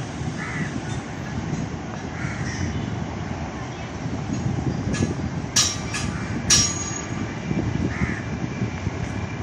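Steady low rumble of a train running through the station, with two sharp metallic clanks with a brief ring a little after the middle. Crows caw every second or two over it.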